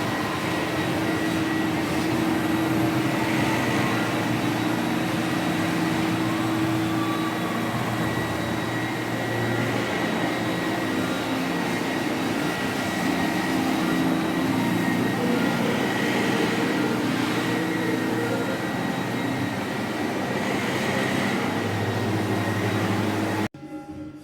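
Floor-cleaning machine motor running steadily with a constant hum and whine, cutting off suddenly near the end.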